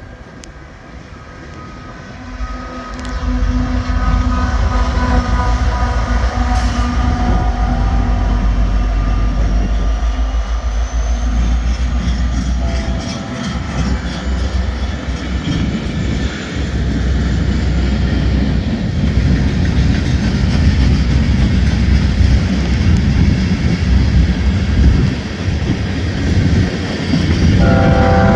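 Freight train passing with its diesel locomotive horn sounding a multi-note chord for the first several seconds and again briefly near the end, over the clatter of rail cars. Strong wind buffets the microphone throughout with a gusty rumble.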